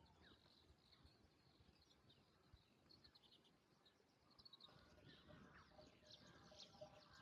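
Near silence with faint, scattered chirps and calls of small songbirds, a few more of them in the second half.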